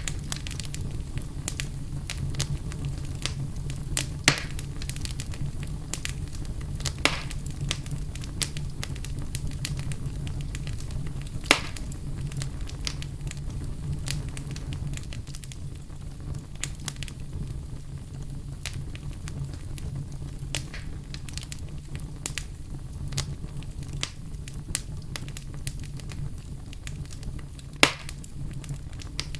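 Wood fire burning in a fireplace: a steady low rumble of the flames with frequent sharp crackles and pops, a few louder pops standing out now and then.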